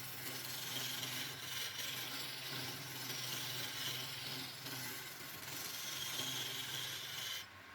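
A woodworking tool scraping or abrading wood, a steady hiss over a low motor hum, which cuts off abruptly near the end.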